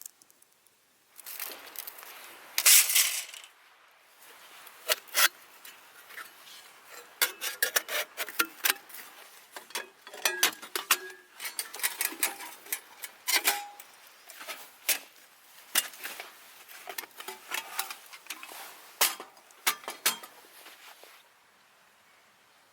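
Metal pieces clinking, clattering and knocking together in an irregular run of sharp clicks with short ringing. It includes a louder scrape near the start, then stops about twenty seconds in.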